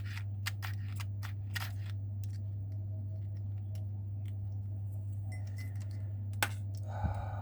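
Scattered small clicks of supply leads being touched to the terminals of a car door lock actuator, over a steady low hum. Near the end the actuator's small 12 V DC gear motor runs in a short buzz.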